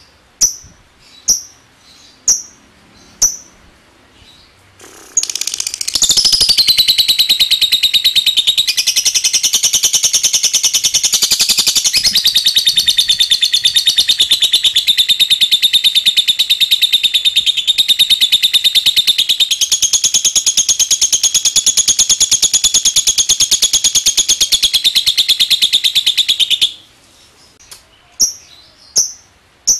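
Lovebird giving sharp single chirps about once a second, then about five seconds in breaking into a long, rapid, unbroken chattering trill: the extended 'ngekek' song that lovebird keepers prize. It runs for about twenty seconds, stops abruptly, and the single 'ngetik' chirps resume near the end.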